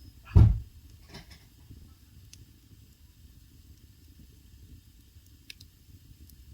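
Wood fire burning in a traditional Korean agungi firebox: a low steady rumble with a few faint crackles. A single loud, dull thump about half a second in.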